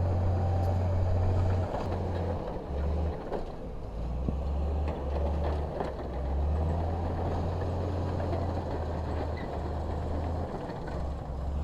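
Heavy construction machine's diesel engine running with a low drone that shifts in pitch and level every second or two.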